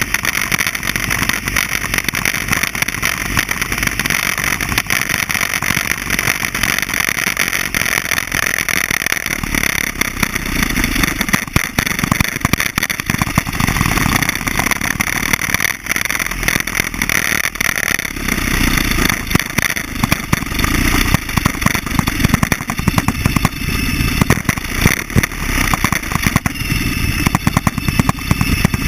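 Buell XB12SCG's air-cooled V-twin engine running, heard through heavy rattle and rumble noise.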